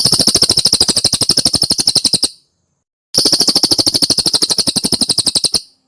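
Cililin bird song: two fast, rattling trills of evenly spaced high notes, each lasting about two and a half seconds, with a short pause between them.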